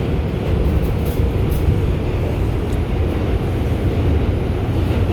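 Inside an R142 subway car running through the tunnel: steady rumble of wheels on rail and the car's motors.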